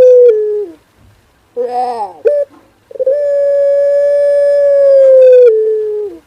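Male puter pelung dove cooing: a long drawn coo dies away with a falling tail, then a short falling note and, about three seconds in, another long steady coo held for some three seconds that drops in pitch at its end.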